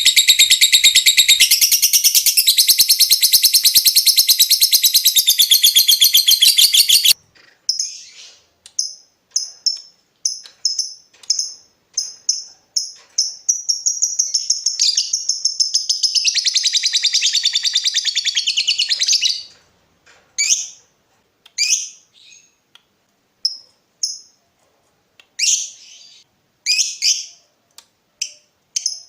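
Lovebird chattering in a long, very rapid high trill (the ngekek) for about seven seconds. A run of short ticking chirps follows, then a second long trill from about fourteen to nineteen seconds, then scattered chirps.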